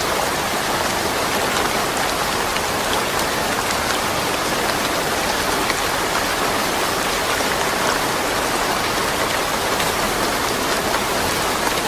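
Steady rain falling, with the patter of individual drops, and no thunder.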